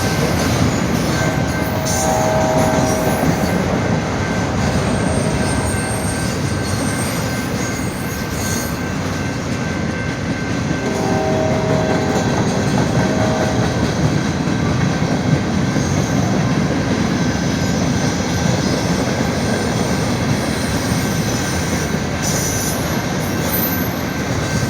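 Norfolk Southern train's cars rolling steadily past on the rails, with brief wheel squeals about two seconds in and again about eleven seconds in.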